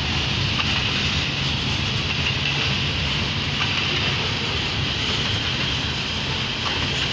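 Freight train of covered hopper cars rolling past at steady speed: a continuous low rumble with an even rolling hiss of steel wheels on rail.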